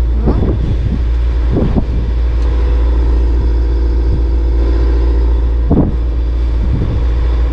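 Sailboat's inboard engine running steadily under way, a continuous low drone.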